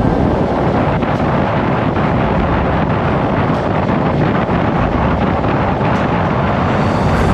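Steady rush of wind buffeting the microphone on a moving motor scooter, with road noise underneath. It cuts off suddenly at the end.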